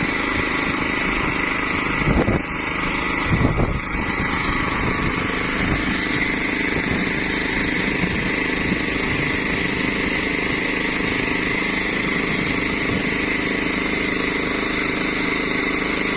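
An engine running steadily at a constant speed, with two brief knocks about two and three and a half seconds in.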